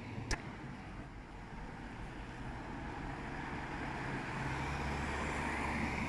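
A road vehicle's engine running, a steady low hum growing gradually louder as it approaches, with a single sharp click near the start.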